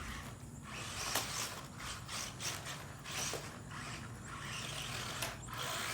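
Electric Traxxas 1/16 Slash RC truck driving on rough ground: its motor and geared drivetrain whir in repeated bursts as the throttle comes on and off, with a few sharp clicks from the chassis or tyres hitting debris.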